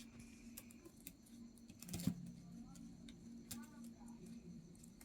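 Pet parrot making scattered light clicks and taps, with a few faint short chirps in the middle, over a steady low hum. The loudest click comes about two seconds in.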